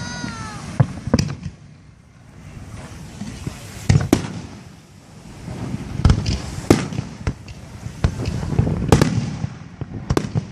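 Fireworks display: aerial shells bursting with sharp bangs in irregular clusters, over a low, continuous rumble of more distant explosions.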